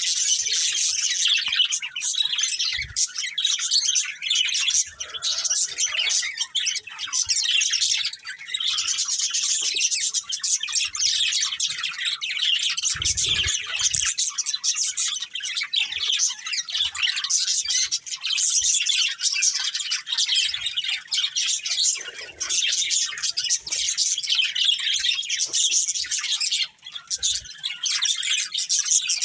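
Budgerigars chirping and warbling continuously, several birds together in a dense, unbroken stream of high chirps.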